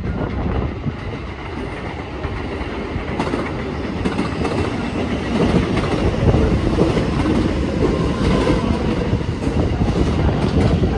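Electric commuter train on the JR Kobe Line moving along the platform, its wheels clattering over rail joints, a little louder in the second half.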